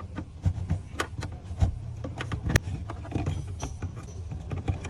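Irregular sharp clicks and knocks, several a second, over a low steady hum. Two louder knocks come about one and a half and two and a half seconds in.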